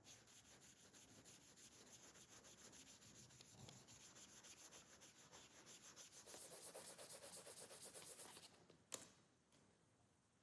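Quick, even hand-rubbing strokes on the knife, several a second, like fine sanding or sharpening, growing louder and brighter about six seconds in, then stopping, with a single sharp click shortly after.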